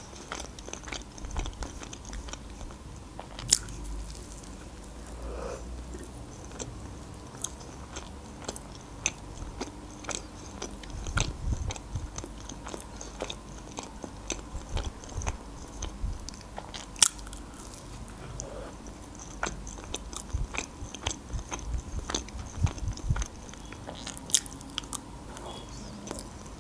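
Close-miked chewing of a soft lavash roll filled with crab sticks, cheese and egg, with scattered sharp clicks of the lips and tongue and a faint low rumble beneath.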